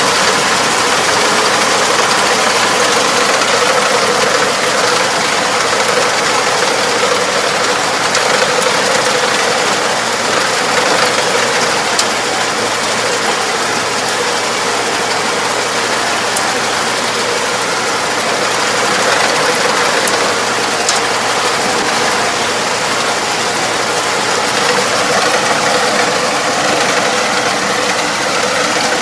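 Farm machine running steadily: an engine with a continuous mechanical clatter of moving parts.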